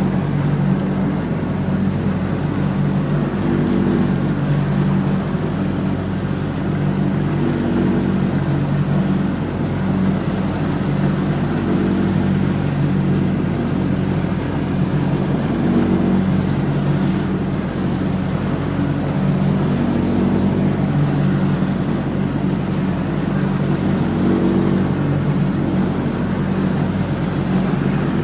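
John Deere X304 lawn tractor's engine running steadily while mowing, its pitch wavering slightly up and down.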